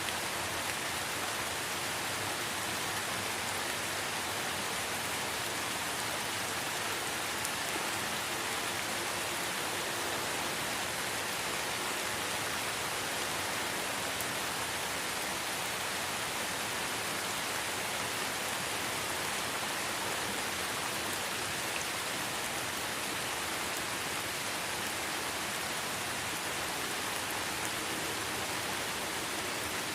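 Steady light rain falling in a forest, an even hiss of many fine drops with no distinct events.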